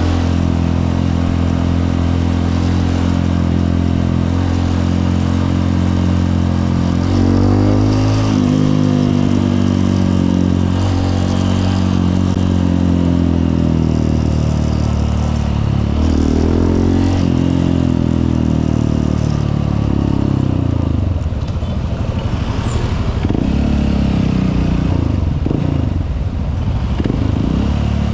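Honda CRF150L's single-cylinder four-stroke engine running on the move. The engine note dips and climbs back up twice, and in the last third the revs rise and fall more unevenly.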